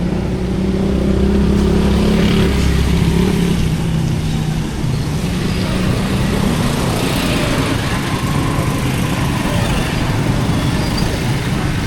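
Motor vehicle engine running close by, its pitch easing down over the first few seconds and then holding steady.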